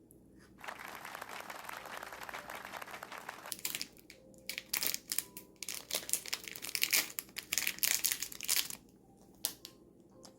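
Wrapping material being handled and crumpled: a steady rustle for about three seconds, then a run of sharp crinkles and crackles that stops a little before the end.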